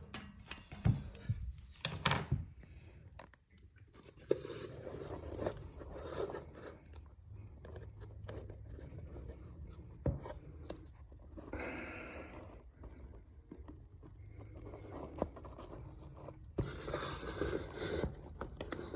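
Irregular scraping, rubbing and clicking of hands working on a pipe fitting, with a short hiss about twelve seconds in.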